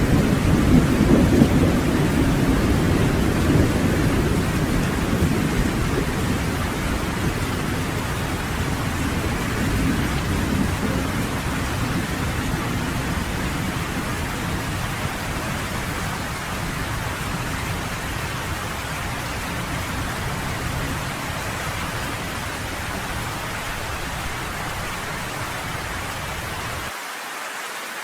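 Steady heavy rain with a deep rolling thunder rumble underneath, loudest in the first few seconds and slowly fading. Near the end the low rumble cuts off abruptly, leaving only the hiss of the rain.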